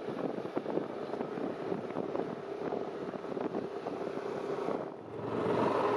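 Wind buffeting the microphone of a moving motorbike, with the engine running underneath. About five seconds in the sound dips briefly, then comes back louder and steadier.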